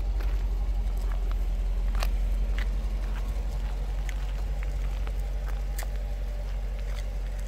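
Chrysler 300C SRT8's 6.1-litre Hemi V8 idling low and steady just after a cold start, the idle easing slightly as it settles. A few light clicks sound over it.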